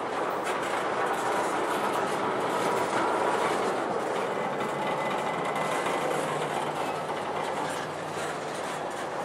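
Empty intermodal spine cars of a freight train rolling past, their steel wheels running steadily on the rails.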